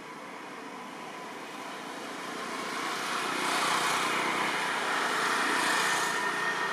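Motor vehicle noise that swells over a few seconds and stays loud, as if a vehicle is coming close.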